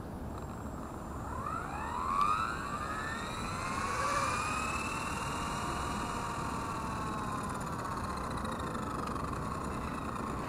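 Blade 230S V2 RC helicopter's electric motor and rotor blades spooling up briefly on the ground: a whine that rises in pitch from about a second in, holds, then slowly eases down. It is a quick test spool-up to check for damage after a soft crash landing, and it shows the helicopter is okay.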